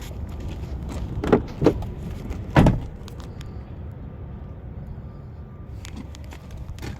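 Three dull thumps in quick succession, the third the loudest, over a steady low outdoor rumble.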